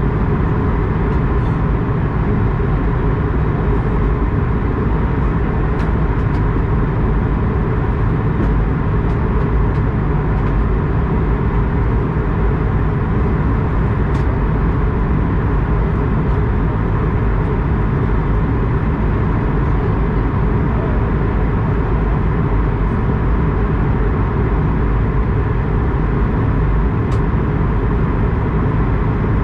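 Steady, even rumble of an Airbus A220-100 airliner's engines and airflow as heard inside the cabin, strongest in the low end, with a few faint ticks.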